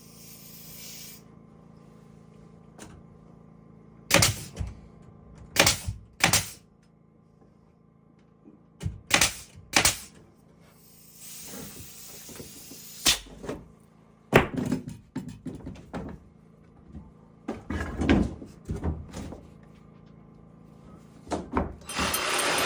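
Scattered sharp knocks and thuds, some in quick pairs and others single, with quiet gaps between them, as from wood being struck or handled during carpentry work.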